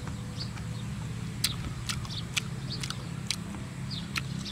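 A person chewing a mouthful of food close to the microphone: short, sharp mouth clicks and smacks at irregular intervals over a steady low hum.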